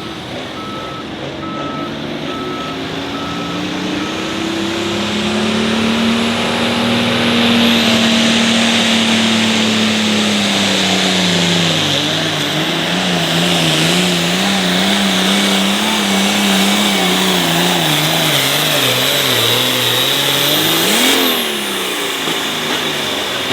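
John Deere hot farm pulling tractor running at full throttle under the load of the sled. Its engine note climbs and holds, then wavers and sags as it bogs down. A sharp rev comes just after twenty seconds in, before the engine backs off.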